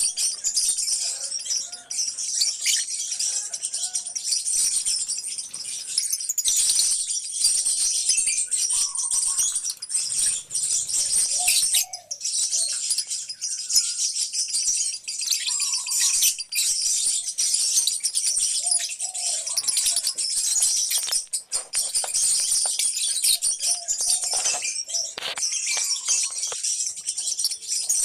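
A colony of lovebirds chirping nonstop, a dense overlapping chatter of high-pitched calls.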